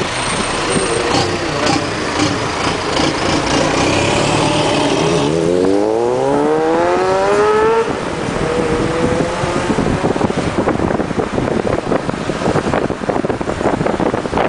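Car engine and road noise from inside a moving car: the engine's pitch rises steadily for about three seconds in the middle as the car accelerates, then drops off sharply at a gear change. Near the end, wind buffets the microphone.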